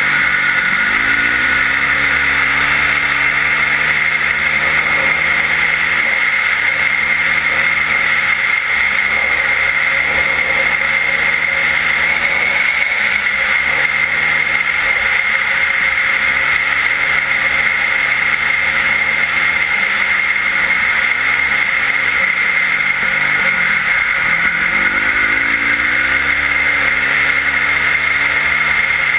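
Yamaha WR450F's single-cylinder four-stroke engine with an Akrapovič exhaust, running hard as the bike rides on snow. The engine note drops and climbs again several times. Wind rushes over the microphone throughout.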